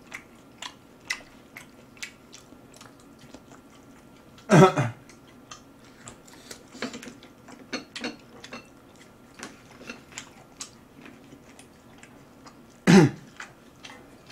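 Close-miked chewing of grilled beef: small wet mouth clicks and smacks, several a second. Twice, about eight seconds apart, a short loud throat noise breaks in.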